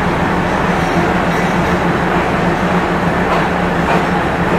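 Diesel passenger train rolling slowly, a steady engine hum under the running noise of the carriages, with a couple of faint wheel clicks near the end.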